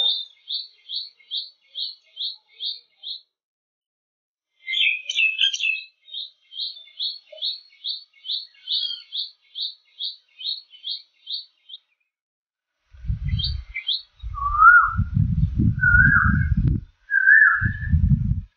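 A songbird repeating a quick, high chirp about five times a second in long runs. Near the end come three lower whistled notes with a low rumble under them.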